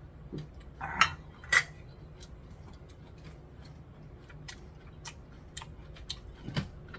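Tableware being handled on a table: two sharp clinks about a second in, then scattered light ticks and a duller knock near the end.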